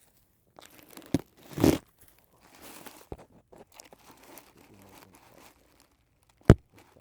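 Plastic packaging crinkling and rustling as it is handled, in irregular bursts, with one sharp click near the end.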